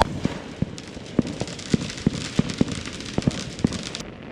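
Fireworks going off: a run of sharp pops and bangs, about three a second, over a continuous crackling hiss.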